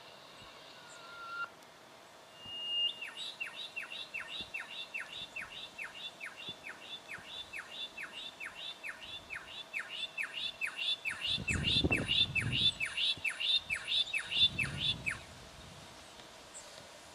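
Juvenile brown goshawk calling a long, even series of sharp downslurred notes, about three a second for some twelve seconds, louder toward the end. Two brief low rumbles come in near the end.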